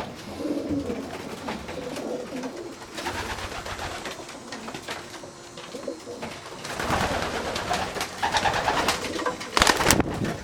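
Racing homer pigeons cooing in a small loft, with bursts of rustling noise, the loudest near the end.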